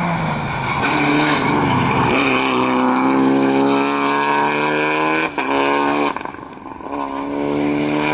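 Rally car engine at high revs under hard acceleration, with a quick gear change about five seconds in. The driver then briefly lifts off and pulls hard again.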